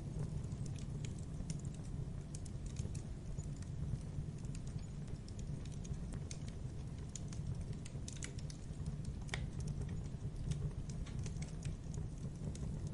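Wood campfire crackling: irregular sharp snaps and pops over a steady low rumble of the burning fire, with one sharper pop about nine seconds in.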